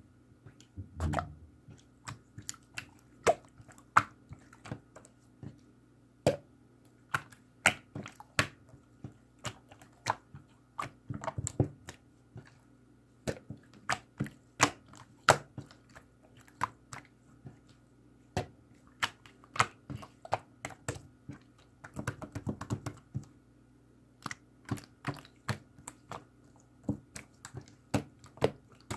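Hands pressing and kneading slime, making an irregular stream of sharp wet clicks and pops, a few a second. There are denser squishy flurries about a second in, around eleven seconds and around twenty-two seconds.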